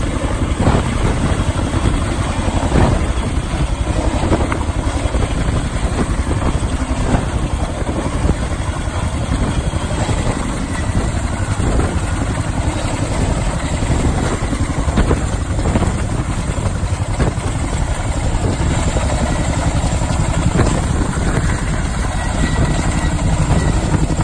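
Boeing CH-47D Chinook helicopter's tandem rotors and twin turboshaft engines running loud and steady.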